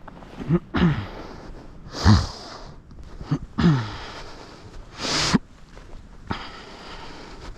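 A person's breath sounds: a few short sniffs and puffs of breath, some with a brief voice sound that falls in pitch.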